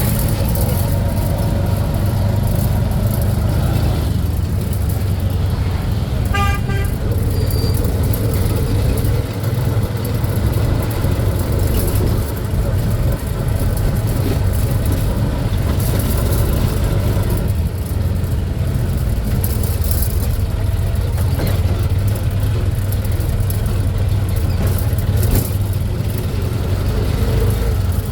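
Steady low rumble of a road vehicle driving, with a short pitched horn toot about six seconds in.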